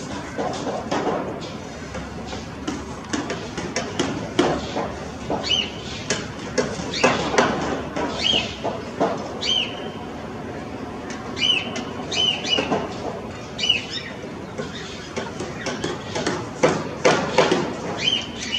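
Short, repeated bird chirps over an irregular clatter of knocks and clicks.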